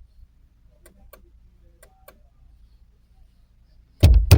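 Faint, irregular relay-like clicking from up inside a vehicle's dashboard near the steering column, an unidentified click that the owner likens to a relay. A loud bump comes near the end.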